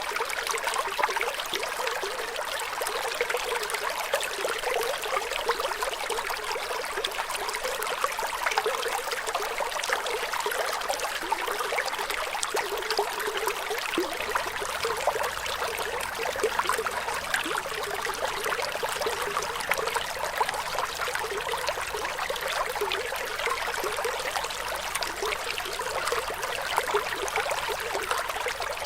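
Running water in a small stream, trickling and splashing steadily.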